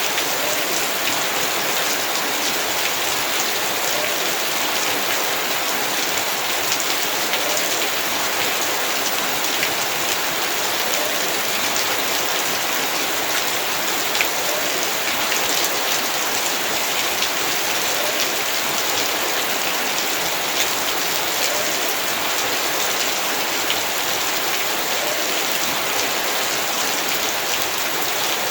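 Heavy rain falling steadily, a dense hiss with many individual drops pattering on surfaces.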